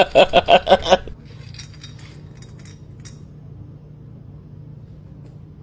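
A person laughing in quick bursts, about five a second, stopping about a second in. Then faint light clinks and taps over a low steady hum.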